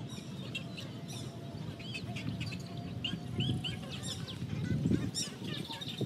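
Many birds chirping and calling in short, quick notes, one after another, over a steady low background rumble.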